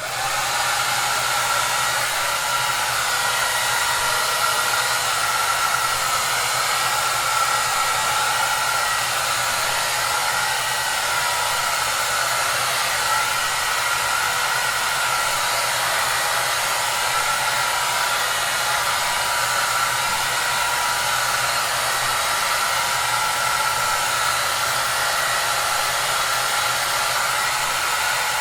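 Hair dryer running steadily: an even rush of blown air with a faint high whine and a low motor hum, cutting in suddenly at the start.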